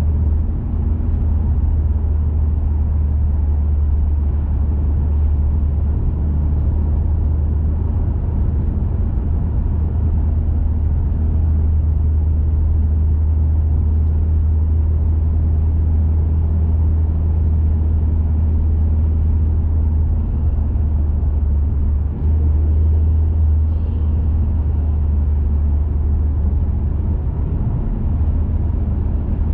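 2021 Mazda 3 Turbo hatchback's 2.5-litre turbocharged four-cylinder, breathing through an aftermarket high-flow intake and 80 mm cat-back exhaust, cruising at steady speed: a steady deep drone with road noise underneath, with a brief dip about two-thirds of the way through.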